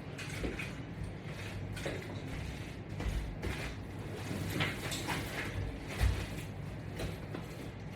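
Scattered soft knocks, rustles and low thuds of a person moving with resistance-band exercise equipment, over a steady low hum; the two heaviest thumps come about three and six seconds in.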